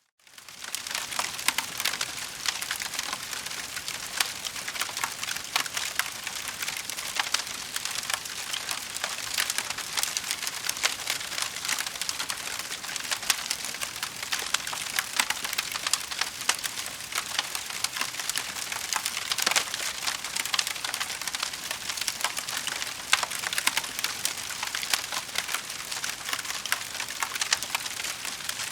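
Wood fire in a fireplace crackling: a dense, steady stream of small pops and snaps with an occasional louder crack, coming back in after a brief gap at the very start.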